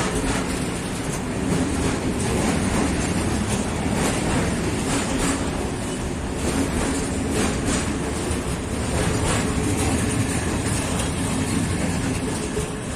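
Train rolling past on the rails, its wheels clattering over the rail joints in a steady run, beginning to fade near the end.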